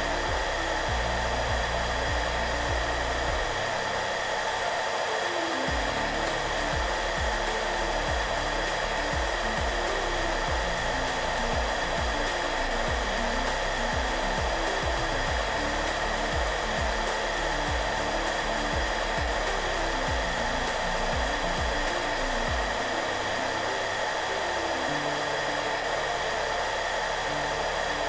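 Hairdryer running steadily, an even blowing hiss with a constant whine, over soft background music with slow low notes.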